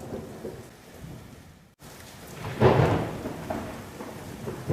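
Thunderstorm sound effect: rain with rolling thunder, and a loud thunderclap rumbling up about halfway through and dying away.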